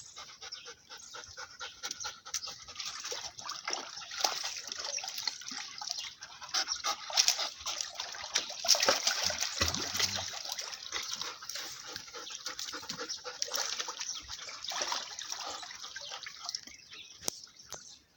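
Dogs playing in water: many short, irregular splashes and spatters, along with the dogs' own sounds.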